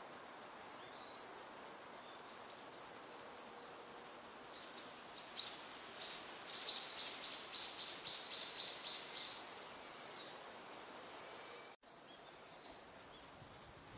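Wild birds calling, among them a brown-eared bulbul: a few scattered high notes, then a fast run of sharp high calls, about three or four a second for several seconds, followed by a couple of downslurred whistled notes. The sound cuts out for an instant near the end.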